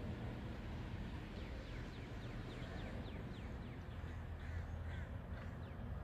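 A bird calling a quick run of short, falling notes, several a second, starting about a second and a half in and stopping near the end, over a low steady rumble.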